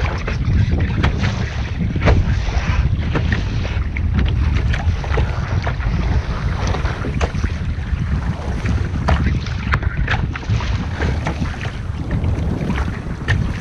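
Wind buffeting the microphone on a sailing boat under way: a heavy, constant rumble. Through it, water slaps and splashes against the hull in frequent, irregular short splashes.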